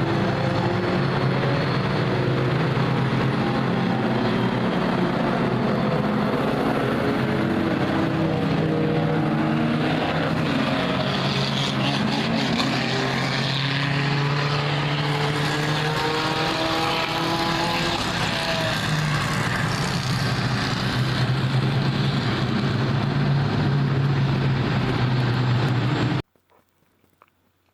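Many car engines running at once as cars circle the oval, their pitches overlapping and rising and falling. The sound is loud and cuts off suddenly near the end.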